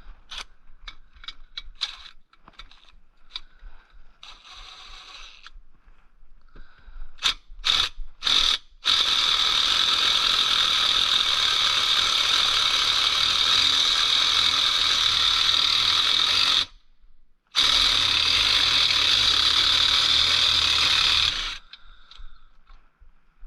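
Ratchet wrench turning the bolt of a homemade bearing press to push a bearing out. It starts as scattered single clicks, then runs as a loud, fast, continuous ratcheting for several seconds, stops briefly, and runs again before stopping suddenly.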